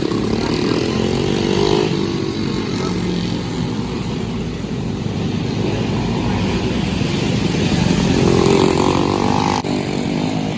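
Briggs & Stratton LO206 single-cylinder four-stroke kart engine running at racing speed, its note rising and falling as it is throttled on and off.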